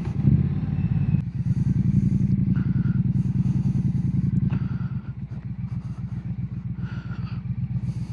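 Triumph Bonneville T120's parallel-twin engine running on the move through aftermarket Hitchcock slip-on exhausts, heard from inside the rider's helmet. The engine pulls under throttle, then its note drops and quietens about five seconds in as the throttle is eased off.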